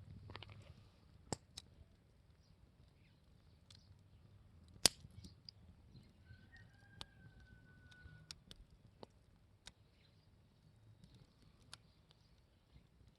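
Campfire crackling: burning wood giving scattered, irregular sharp pops and snaps, one much louder about five seconds in. A thin steady whistle sounds for about two seconds just past the middle.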